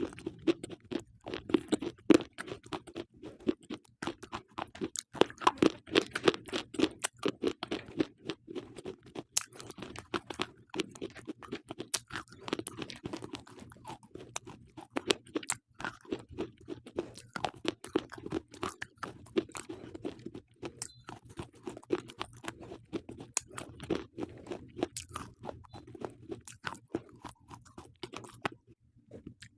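Slate pencils being bitten and chewed, a dense run of sharp, crisp crunches with a short pause near the end.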